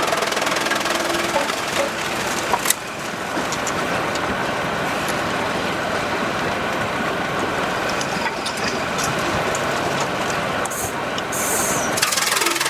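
Sawmill machinery running steadily, with a couple of sharp knocks a little under three seconds in.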